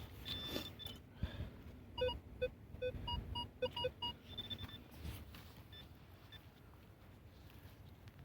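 Minelab Vanquish 340 metal detector giving a quick run of short, low tone beeps as the coil sweeps over a target, with a few higher-pitched beeps before and after.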